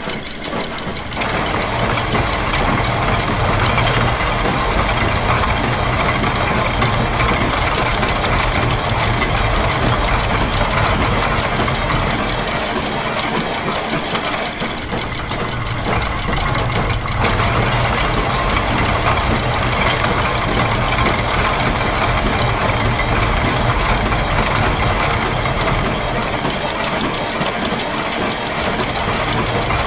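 Dense, continuous mix of looped machine sounds: clattering gears and ratchets layered over a steady engine-like hum. The texture thins and shifts briefly just after the start and again around the middle as loops change.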